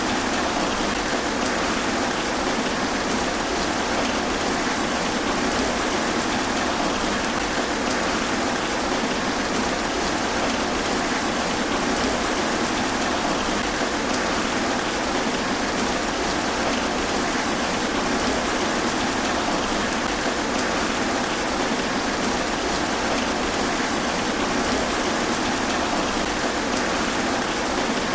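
Steady rain falling on trees, an even, dense patter that holds the same level throughout.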